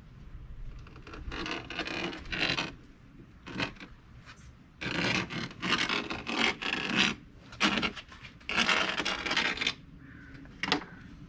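Boat carpet being cut around a wooden floor panel: a series of irregular scratching, rasping strokes, some short and some drawn out about a second, with a single sharp stroke near the end.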